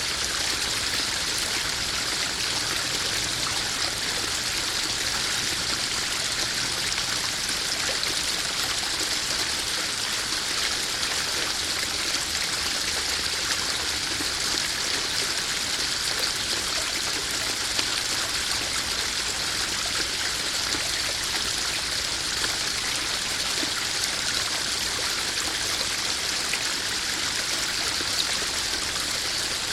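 Small garden pond waterfall splashing and trickling steadily into a koi pond, an even water hiss.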